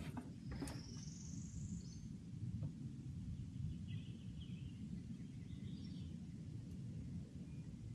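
Outdoor river ambience: a steady low rumble with a few faint bird calls, one about a second in and a couple more around four to six seconds in, and a couple of light clicks near the start.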